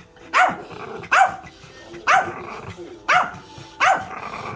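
A dog barks sharply six times in a steady rhythm, about one bark every 0.8 s, demanding play while it holds a fetch ball.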